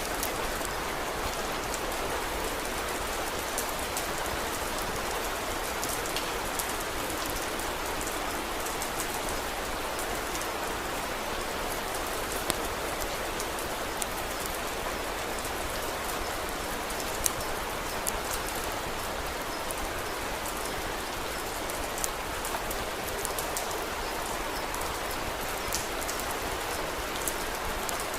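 Steady rainfall, a dense even patter, with scattered sharp ticks and a few louder pops from time to time.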